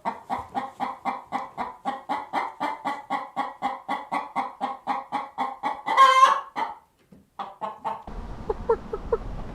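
A chicken clucking in a fast, even run of about four to five clucks a second. A louder drawn-out squawk comes about six seconds in, and the clucking breaks off. After a brief gap, a few faint clucks sound over a low background hum.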